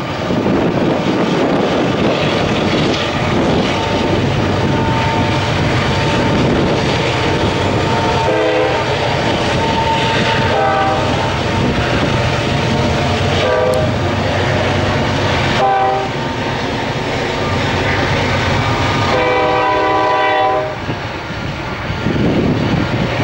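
Freight train with diesel locomotives running, a steady low rumble under the horn. The locomotive horn sounds several chord blasts, about five, the last and longest near the end.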